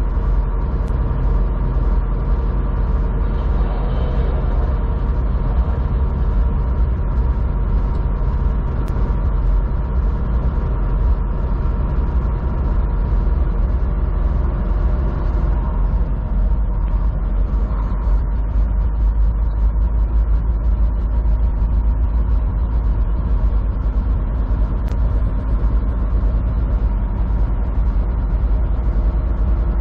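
Steady engine and road noise heard inside a moving vehicle's cabin: a deep, even rumble with a constant engine hum.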